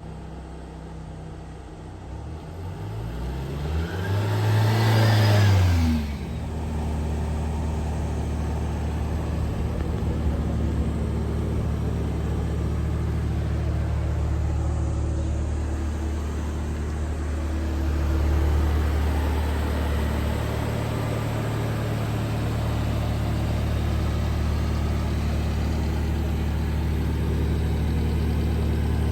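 1996 Subaru Sambar truck's small engine revving up to a brief peak about four seconds in, then dropping back and running at a steady idle.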